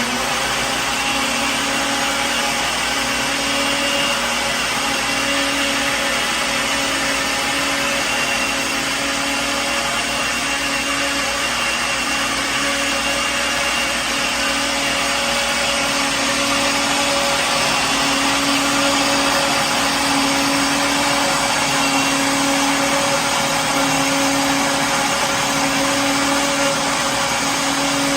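Electric kitchen blender running steadily at one speed, a continuous motor whir and hum.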